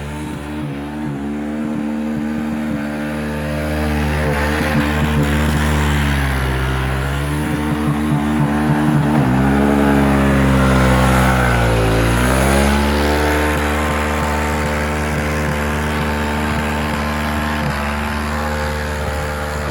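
Vehicle engine held at high revs while it is drifted in snow. The pitch sags twice and climbs back, with choppy stretches in between.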